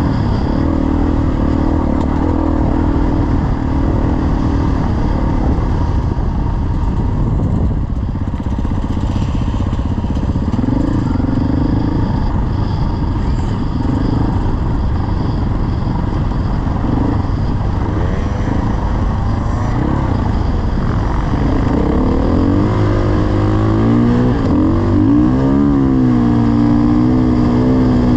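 Dirt bike engine running under way over a constant rush of noise, its note rising and falling with the throttle; in the last few seconds the revs climb, waver, then hold a steady higher pitch.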